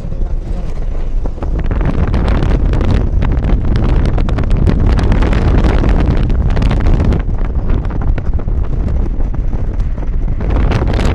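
Loud wind buffeting the microphone, a dense rumbling rush that swells and eases in gusts.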